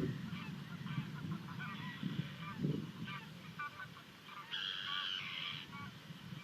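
Kestrel chicks at the nest giving short, high begging calls while being fed, with one longer drawn-out call about two-thirds of the way in. Low bumps of movement in the nest box sound underneath.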